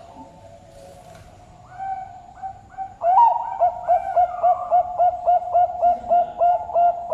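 Zebra dove (Bangkok perkutut) cooing: faint held notes, then from about three seconds in a loud, fast run of short coos, about four a second.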